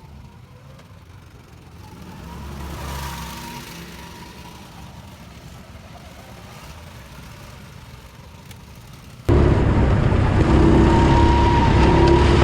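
Car engine noise: an engine swells and fades about two to four seconds in. About nine seconds in the sound cuts abruptly to a much louder engine running close by.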